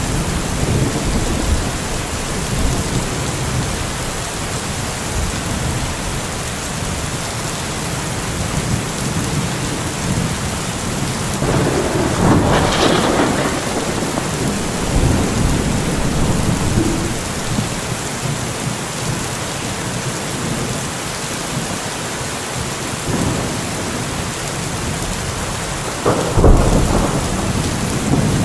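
Steady heavy rain falling, with rolls of thunder: a louder swell about twelve seconds in and a sharp, loud crack near the end.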